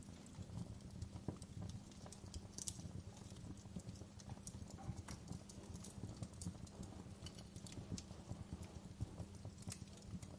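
Wood fire in a fireplace burning, with a steady low rumble of flame and irregular sharp crackles and pops scattered throughout.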